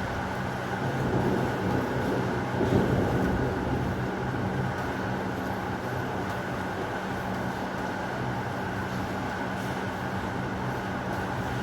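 Steady heavy rain, with a low rumble of thunder swelling and fading about one to three seconds in.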